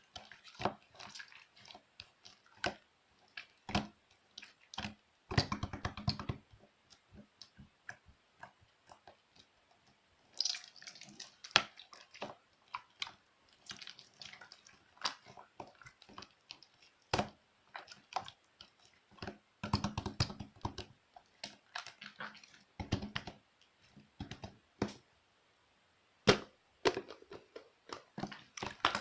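Glitter slime being squished and stretched by hand, giving irregular wet clicks, pops and crackles, with denser bouts of squelching about five, twenty and twenty-three seconds in.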